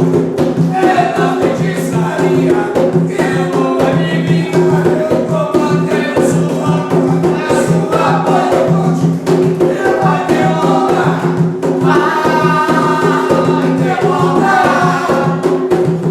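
A group of voices singing an Afro-Brazilian ritual chant over steady, fast percussion.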